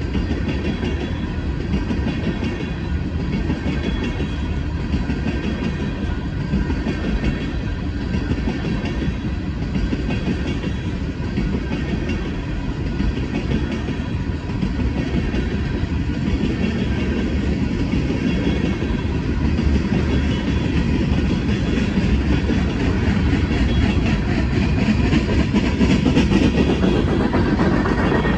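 Freight train tank cars rolling past at a grade crossing: a steady rumble of steel wheels on rail with clickety-clack over the joints, growing a little louder near the end.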